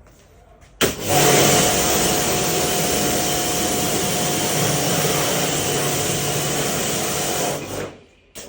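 Electric pressure washer running and spraying, a loud steady hiss over a motor hum that starts abruptly and cuts off after about seven seconds, with a short second burst near the end.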